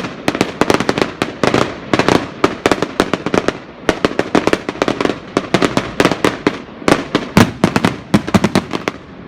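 Fireworks going off in a rapid, irregular barrage of sharp bangs and crackles, several a second. The barrage stops just before the end, leaving a fading rumble.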